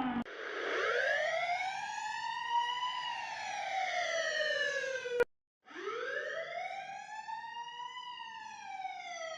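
Police siren wailing in one slow rise and fall, cut off suddenly about five seconds in. After a brief gap a second siren wail rises and falls again.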